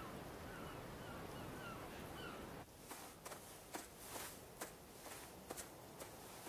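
Birds calling in short repeated chirps, about two a second, over a steady outdoor hiss that cuts off abruptly a little over two seconds in. After that only faint scattered clicks and ticks are heard.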